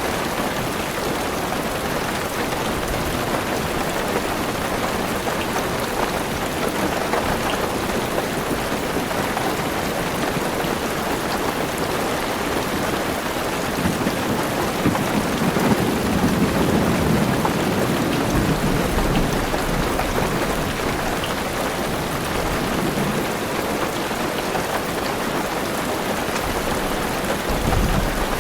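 Heavy rain falling steadily on a car roof, heard from inside the car. A low rumble of thunder swells about halfway through, and a fainter one comes near the end.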